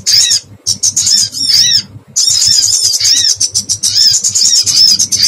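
A small bird's harsh, rapid distress calls, the 'trapped bird' cry used as a lure to draw other small birds in. The calls come in dense, scratchy runs of arching notes, pausing briefly about two seconds in.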